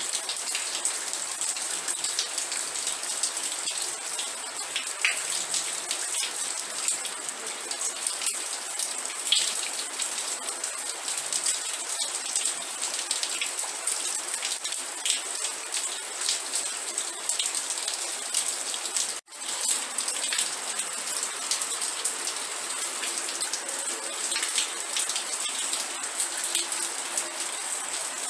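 Steady rain falling on a surface, a dense hiss with many individual drops ticking through it. About two-thirds of the way through the sound breaks off for an instant and resumes.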